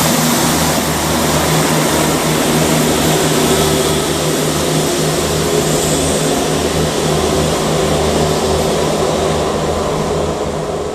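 Diesel train passing close by, its engine running steadily under a loud rush of wheel and air noise. The sound begins to fade at the very end.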